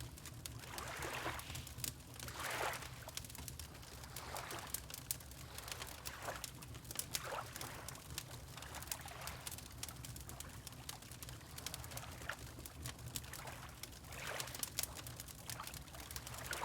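Water lapping in soft, irregular splashes about every second or two, over the fine, frequent crackle of a wood fire and a steady low rumble.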